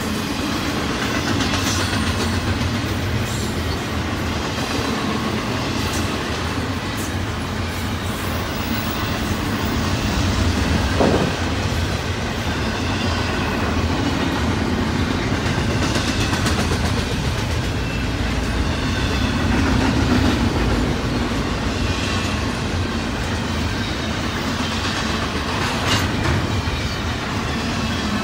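Double-stack intermodal container cars rolling past on the rails: a steady, loud rumble and rattle of steel wheels on track, with a few sharper knocks along the way, the strongest about a third of the way in.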